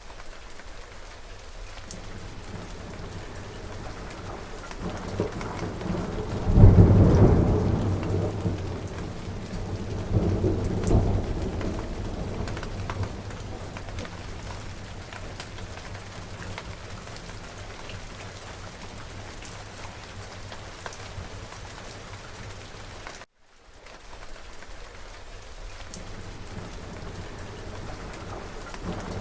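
Steady rain falling, with a roll of thunder starting about six and a half seconds in, swelling again a few seconds later and rumbling away. The sound cuts out for a split second about three-quarters of the way through, then the rain resumes.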